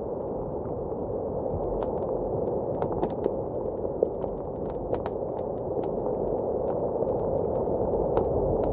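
Wood fire crackling in a fireplace, with irregular sharp pops and snaps, over the steady rushing noise of blizzard wind.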